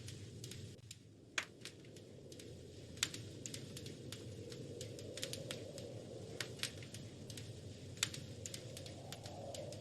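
Wood fire crackling: irregular sharp pops and snaps, a few loud ones, over a steady low rumble of the burning fire.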